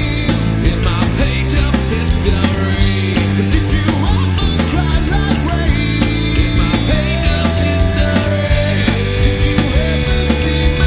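Loud rock music with drums and electric guitars, played continuously with a steady beat.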